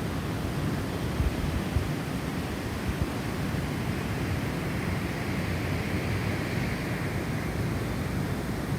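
Gusty snowstorm wind, a steady rushing with a few low buffets early on. A higher whistling gust swells up past the middle and fades again.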